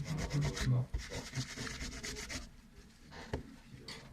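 Abrasive rubbing on a knife: rapid back-and-forth scraping strokes for about a second and a half, then lighter, slower rubbing.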